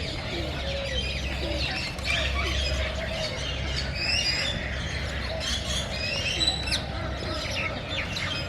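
A chorus of many aviary birds chirping and squawking over one another, with a few lower curved calls mixed in.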